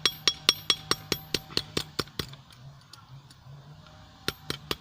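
Hand hammer striking a hot steel blade on a small 25 lb anvil: a quick run of blows at about five a second, each with a bright ring, stopping about two seconds in. A few more blows come near the end.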